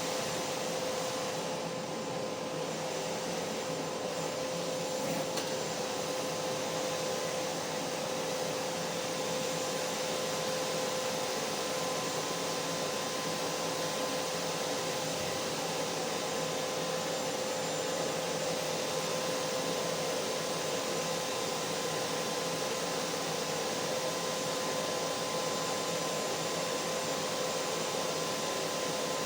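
Vacuum cleaner motor running steadily: an even rushing noise with a constant hum, with no change in speed.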